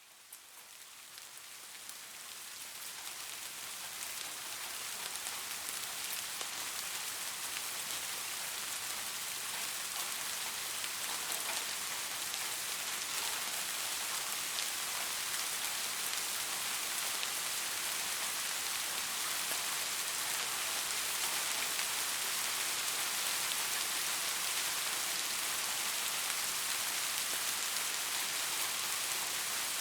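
Rain falling steadily: a dense, even hiss with a fine patter of drops, fading in over the first five or six seconds and then holding steady.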